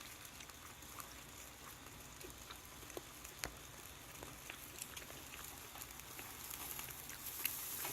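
Meat grilling over the fire of a fire stand: a faint crackle and sizzle with scattered small pops, one sharper pop about three and a half seconds in, the hiss growing near the end.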